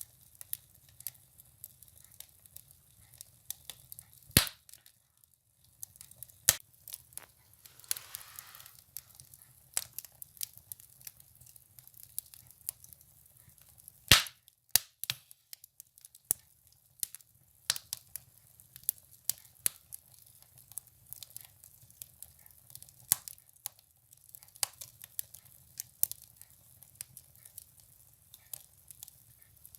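Firewood burning in a stove, crackling with irregular sharp pops. Two pops are much louder than the rest, about 4 s and 14 s in, and there is a brief hiss about 8 s in.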